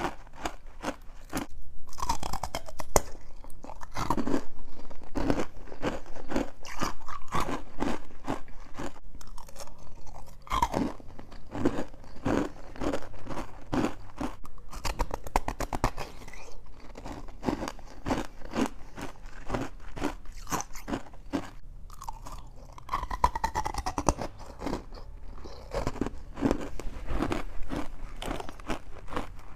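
Close-up crunching and chewing of juice-soaked freezer frost ice, a dense run of crisp crunches with short pauses between bites.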